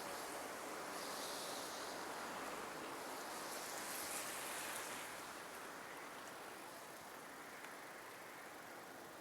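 Steady rushing hiss of a bicycle ride on wet streets, tyres on damp pavement mixed with air rushing past. It is louder for the first half and eases off after about five seconds.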